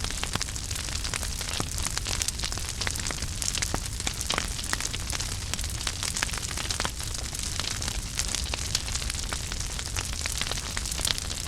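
Wood fire burning in a fireplace: a steady crackle of many small snaps and pops over a soft hiss and low rumble.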